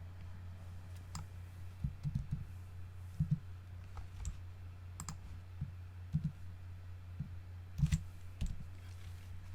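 Scattered computer clicks and taps, a few soft low knocks among them, over a steady low electrical hum.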